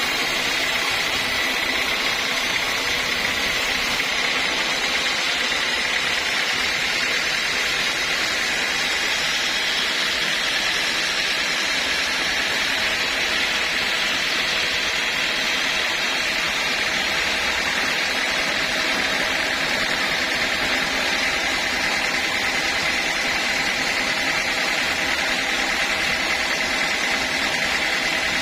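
Sawmill machinery running steadily: an even mechanical drone with a constant high whine.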